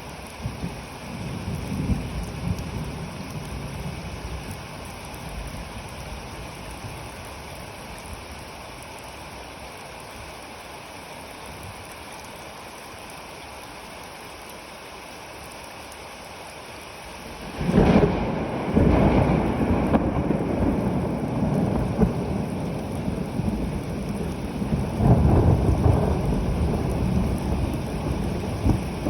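Steady rain falling, with a low thunder rumble dying away in the first few seconds. About two-thirds of the way in, a sudden thunderclap breaks loudly and rolls on as a long rumble, swelling again near the end.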